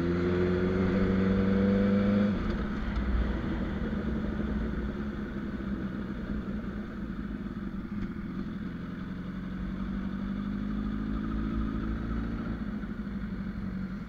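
Honda CBR1000RR Fireblade inline-four engine accelerating at low speed, its pitch rising for about two seconds before the throttle eases off. It then runs on at a low, steady pace, pulling up gently again later on.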